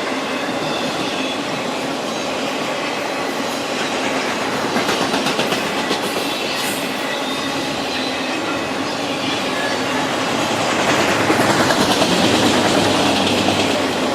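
Canadian Pacific freight train's autorack cars rolling past on the track, steel wheels clacking over the rail joints in a steady rhythm. The clatter grows louder near the end.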